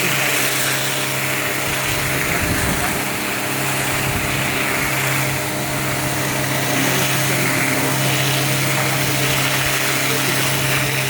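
Small electric pressure washer running steadily while the filters are rinsed: a constant motor hum under a steady hiss of spraying water, with a brief low rumble about two seconds in.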